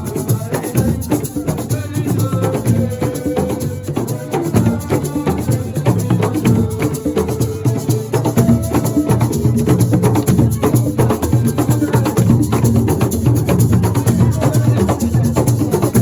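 Live band music with a fast, steady percussion rhythm of drums and shaken rattles, and a few held melodic notes over it.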